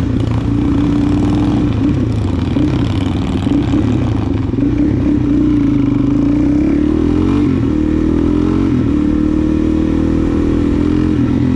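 Suzuki DR-Z400SM's single-cylinder four-stroke engine running while riding. Its note holds steady, climbs and drops back twice in the middle as it revs up through gear changes, then settles to a steady run.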